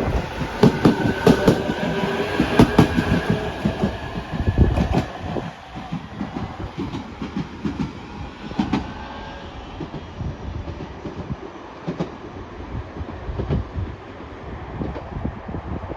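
JR Kyushu 817-series electric train passing, its wheels clicking rhythmically over the rail joints. It is loud for about the first five seconds, then drops to a quieter rumble with occasional clicks as it moves away.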